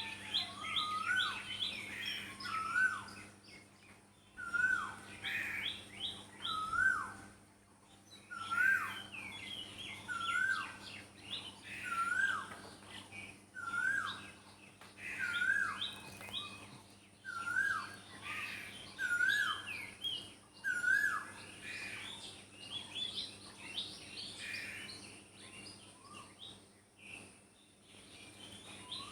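Morning bird chorus: one bird repeats a short whistled note that rises and then drops, about once a second, while other birds chirp faster and higher around it. A faint steady hum runs underneath.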